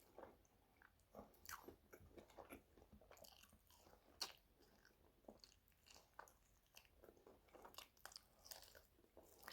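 Faint, close-miked chewing and biting on crispy air-fried chicken drumsticks: scattered soft crunches and wet mouth clicks at irregular intervals.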